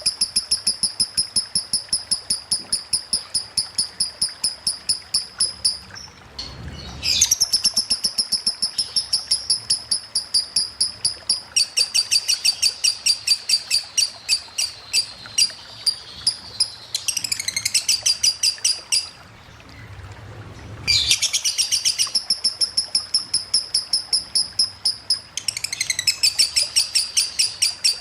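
Lovebird singing long unbroken runs of rapid, repeated high chirps, about four a second, in the nonstop ticking 'ngetik' style of a konslet lovebird, broken twice by short pauses.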